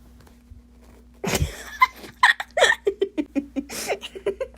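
A sudden loud burst about a second in, then a person laughing hard in a run of quick, repeated bursts.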